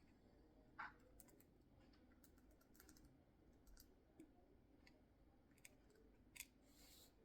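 Faint, irregular clicks and small crunches of a budgie's beak nibbling at food, a few scattered ticks over several seconds against near silence.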